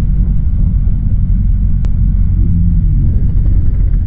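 Harley-Davidson motorcycle riding along, a dense, steady low rumble from the bike and the wind on the camera. A single sharp click comes a little under two seconds in.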